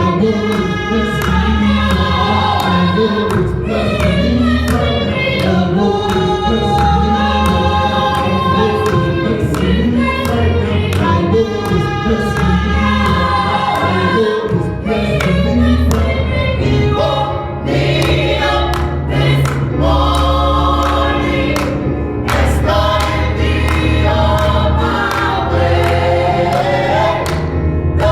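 Gospel choir singing with instrumental backing: many voices together over bass and a steady beat.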